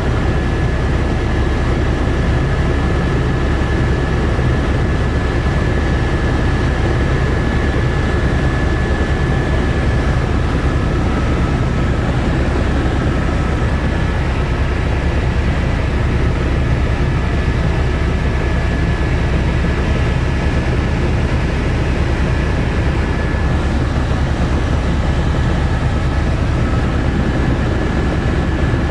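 Helicopter in flight: a loud, steady low drone of rotor and engine with a thin high whine above it.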